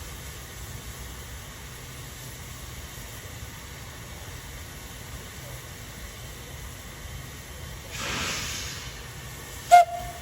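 Steam locomotive Furness Railway No. 20 at a standstill with steady low background noise, then a burst of steam hiss about eight seconds in that lasts about a second. Near the end comes a single sharp, loud clank with a short ringing tone after it.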